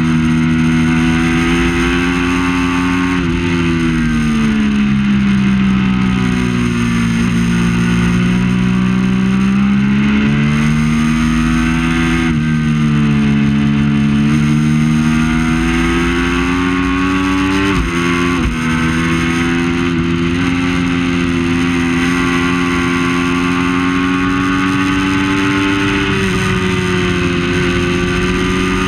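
Triumph Daytona 675's three-cylinder engine running hard at racing speed, its pitch falling and rising several times as the bike slows and accelerates. There is a brief break in the sound about eighteen seconds in, followed by a long steady climb in pitch.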